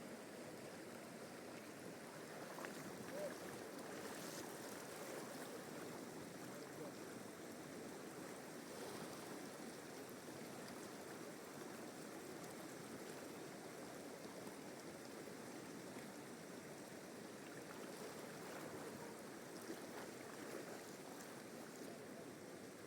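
Flowing river water, a steady, faint rush.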